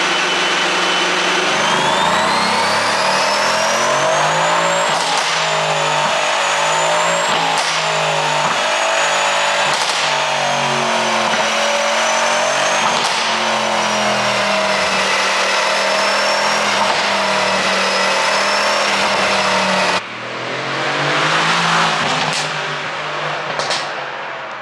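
Mercedes-AMG C63 S's twin-turbo V8 running hard, its pitch rising and falling with the revs, with sharp exhaust pops every few seconds from an ECU pop-and-bang tune. The sound cuts off abruptly about twenty seconds in, then swells again with a few more pops near the end.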